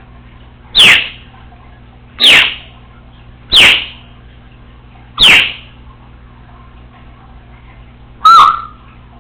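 Congo African grey parrot whistling: four loud, short whistles, each falling sharply in pitch, about a second and a half apart. After a pause, one more loud whistle near the end ends on a held, steadier note.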